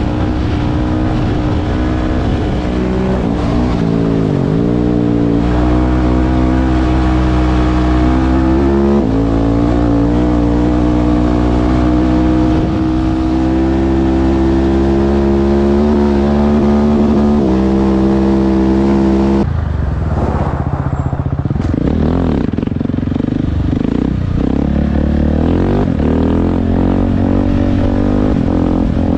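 Husqvarna 701 supermoto's single-cylinder engine with Akrapovic exhaust, loud and under hard throttle, its pitch holding and stepping up as it runs through the gears. About twenty seconds in the throttle closes and the revs fall and wander with short blips.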